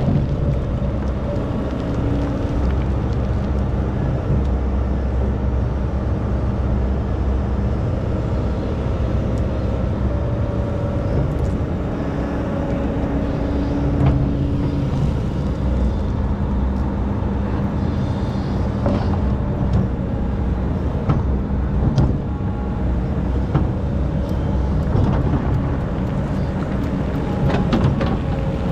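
Excavator's diesel engine running steadily, its pitch shifting slightly now and then, with a few sharp knocks scattered through.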